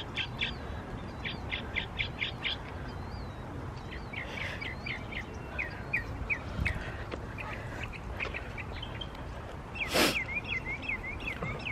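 Birds calling: runs of short, high chirps and quick falling notes, repeated throughout. About ten seconds in there is a brief, loud burst of noise.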